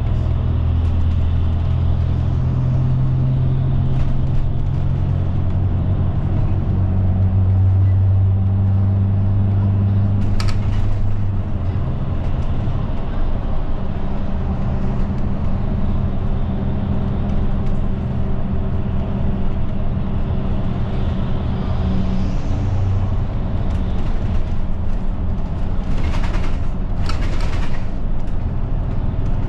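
Route bus's diesel engine heard from inside the passenger cabin, a steady low hum that shifts in pitch as the bus changes speed. A short click comes about ten seconds in, and two brief hissy sounds near the end.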